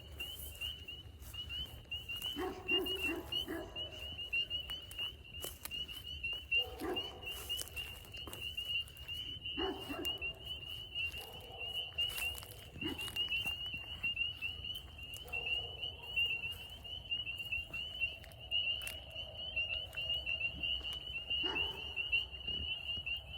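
A chorus of spring peepers: many small frogs calling in really high-pitched peeps that merge into a steady, pulsing trill. Occasional short knocks and rustles sound over it.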